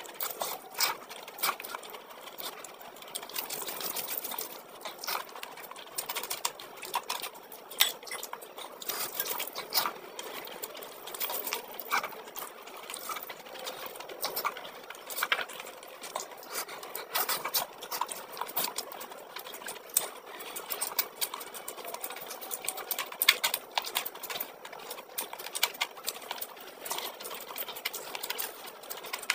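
Close-miked eating sounds of rice and curry eaten by hand: wet chewing and mouth clicks, a dense irregular run of small sharp clicks throughout.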